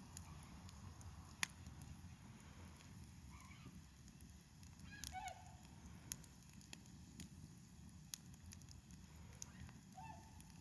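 Wood fire burning faintly, with a low steady rumble and sharp crackling pops scattered throughout. Three short pitched calls sound about three, five and ten seconds in.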